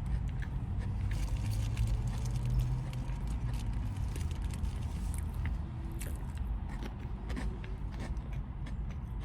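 A person chewing turkey deli meat close to the microphone, with many small wet mouth clicks, over a steady low hum.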